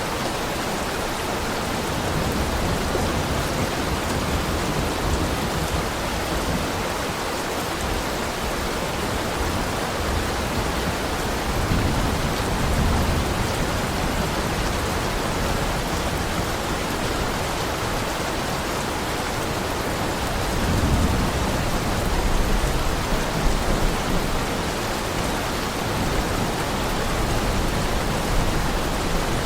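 Heavy rain falling in a steady, even hiss. A low rumble swells twice, about twelve and twenty-one seconds in.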